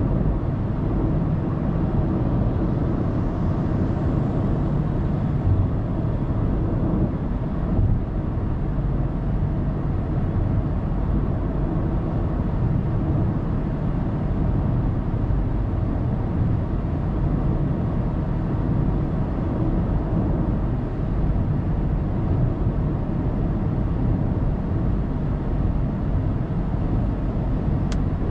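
Steady low road and tyre noise with engine hum from a car cruising on an expressway, heard inside the cabin through a dashcam microphone.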